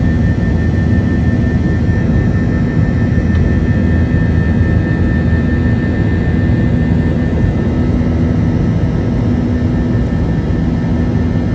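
Airbus A321's IAE V2500 turbofan engines running steadily, heard inside the passenger cabin as an even drone with a thin high whine above it.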